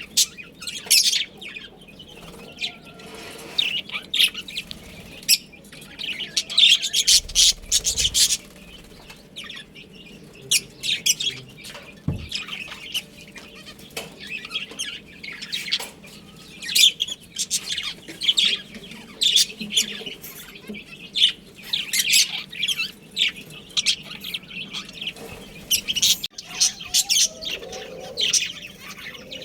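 Pet budgerigars chirping: many short, high calls in quick clusters with brief pauses between.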